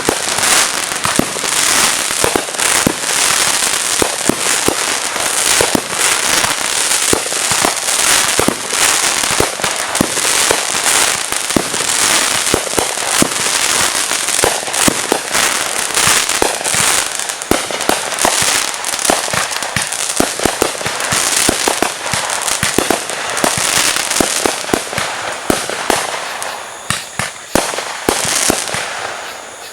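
Fireworks going off in rapid, continuous succession: a dense stream of cracks and pops with sharper bangs scattered through it, thinning slightly near the end.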